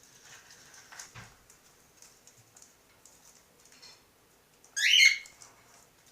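Cockatiel chick giving one short, loud, harsh call about five seconds in, after faint rustling and tapping.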